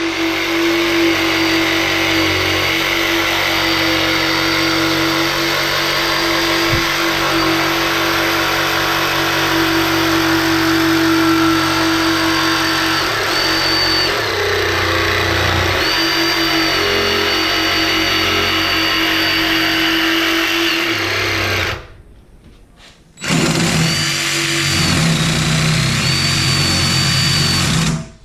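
DeWalt 331B cordless jigsaw running and cutting curves in wood, its motor and blade going steadily for about twenty seconds, stopping briefly, then starting up again for the last few seconds.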